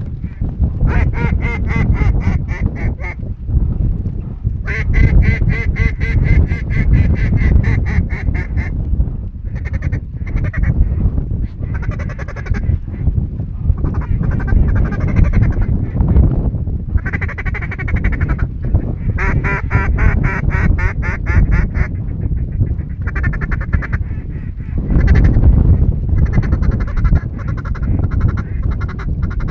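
Duck quacking in repeated loud runs, each a few seconds long, over a steady low rumble.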